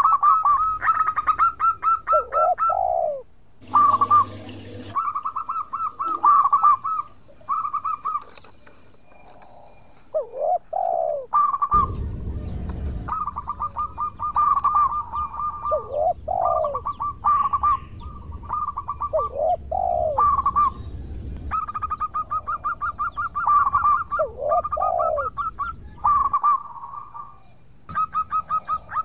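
Zebra dove (perkutut) singing its cooing song over and over: each phrase has a few lower swooping coos followed by a fast stuttering run of higher notes, repeated every few seconds. Two brief noisy bursts break in, about four seconds and twelve seconds in.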